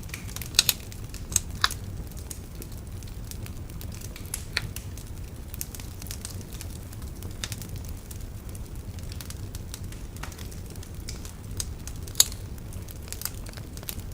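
Wood bonfire crackling with a steady scatter of sharp pops and snaps, a few louder pops in the first two seconds and one near the end, over a low steady rumble.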